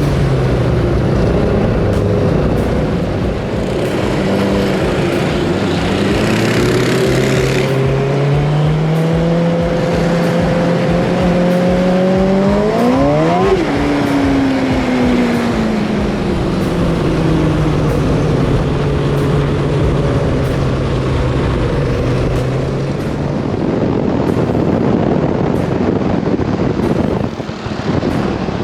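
Road-legal go-kart engine running on the move. Its note drops at the start, holds steady, climbs sharply about halfway through and falls back, then fades out, leaving wind and road noise.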